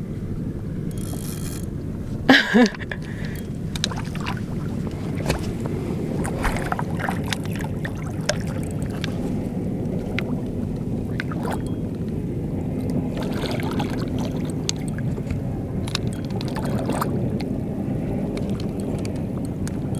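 Steady low noise of a small boat on open bay water, with scattered small clicks and knocks. About two seconds in comes a short, loud pitched cry with a rising and falling pitch.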